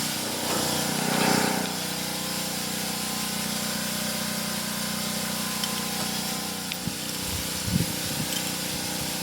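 A motor or engine runs steadily, a hum with hiss, swelling briefly about a second in, with a few low knocks near the end.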